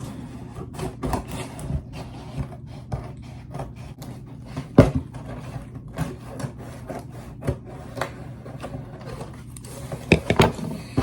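A cardboard box being cut open and handled: repeated scraping and rasping with many small clicks, a sharp knock about five seconds in and a couple more near the end.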